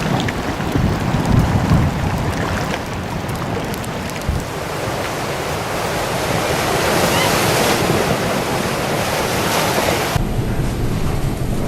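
Wind and rough sea, a steady rushing noise that swells to its loudest about two-thirds of the way through. About ten seconds in it cuts abruptly to a duller, low rumble.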